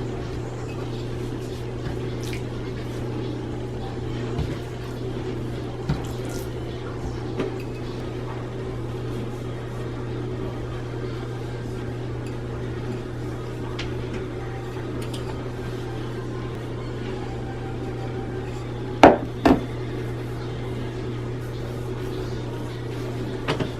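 A steady low hum with a few light taps, and two loud knocks in quick succession about nineteen seconds in, like something hard being set down or struck on a kitchen counter.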